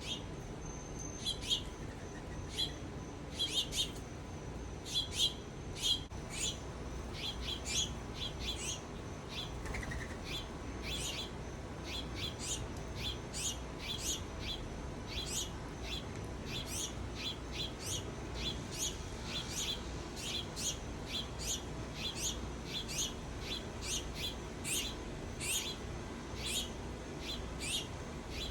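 Small birds calling with short, sharp chirps, one or two a second, sometimes in quick pairs, over a faint steady low hum.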